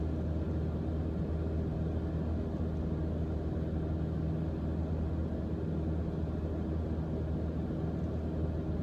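Steady drone of a Mooney M20J's four-cylinder Lycoming IO-360 engine and propeller, heard in the cockpit during a descent, with a low, even hum and no change in pitch.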